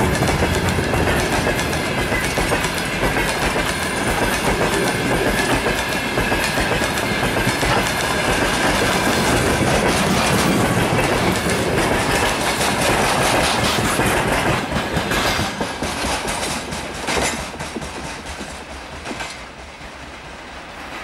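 Freight wagons (open gondolas, then covered hoppers) rolling past, their wheels clattering on the rails. From about three quarters of the way through there are a few sharper clacks, and the sound fades as the end of the train passes and draws away.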